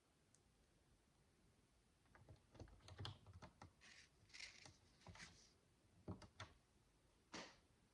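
Faint, irregular clicks and light scrapes of micro building bricks being handled and pressed together. The clicks come in a loose run starting about two seconds in, with a last one near the end.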